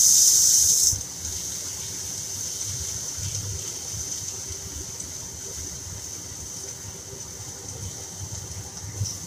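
Lemon juice hitting a hot wok of frying chili sambal: a loud burst of sizzling for about a second, then steady sizzling from the frying mixture.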